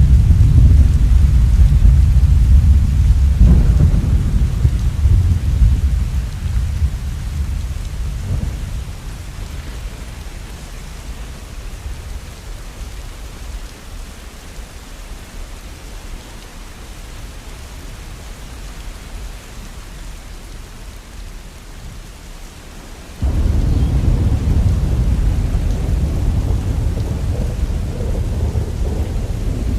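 Steady rain hiss with rolling thunder. A deep rumble fades away over the first ten seconds, leaving the rain on its own, and another rumble breaks in suddenly about 23 seconds in.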